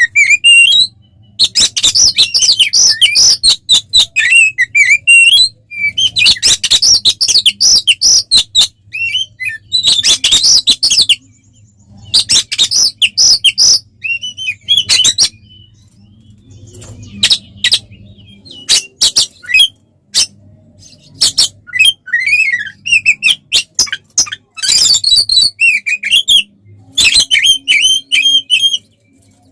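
Oriental magpie-robin (kacer) singing loudly in full song: bursts of rapid, varied whistles and harsh chattering notes, each a second or two long, broken by short pauses. A faint steady low hum runs underneath.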